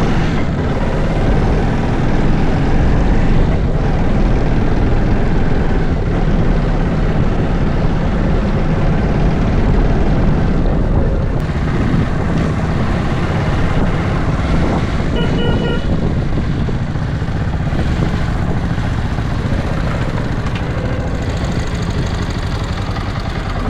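Steady, loud, low rumble of a vehicle on the move, heavy in the bass, with a brief thin high tone about fifteen seconds in.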